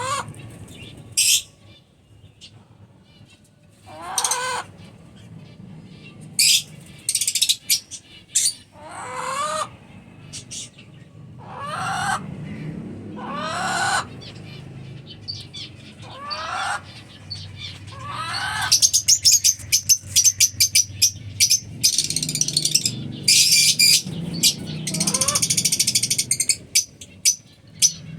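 Lovebirds calling: separate shrill calls every couple of seconds, then a long run of rapid, high-pitched chattering about two-thirds of the way through.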